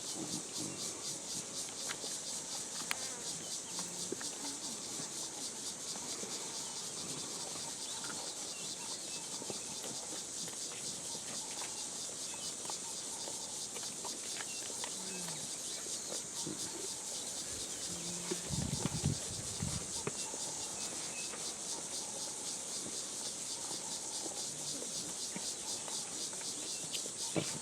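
Steady high-pitched insect chorus, a fast even pulsing buzz that goes on throughout. About two-thirds of the way through, a brief low rumble sounds over it.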